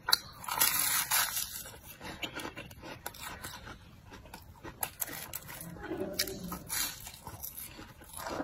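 Close-up eating sounds: biting into fried dough cakes and chewing, with crackly crunches and wet mouth clicks, busiest in the first two seconds.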